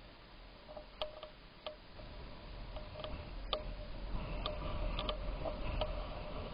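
Light, irregularly spaced ticks and clicks, about one or two a second, over a steady low rumble that grows louder toward the end.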